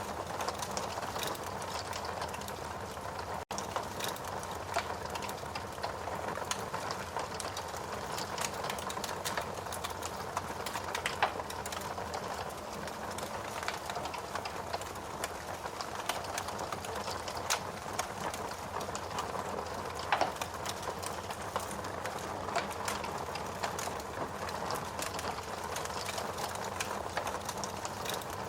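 Wood logs burning in a fireplace: a steady hiss of flame with frequent small crackles and a few louder pops, broken by a split-second dropout about three and a half seconds in.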